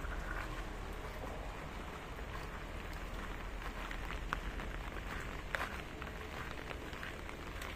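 Light drizzle falling, a steady hiss of rain with scattered drops ticking, and two sharper clicks about four and five and a half seconds in.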